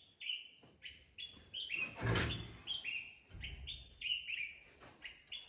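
Birds chirping in the trees: many short, high chirps, each dropping in pitch, about three a second. A brief louder rush of noise comes about two seconds in.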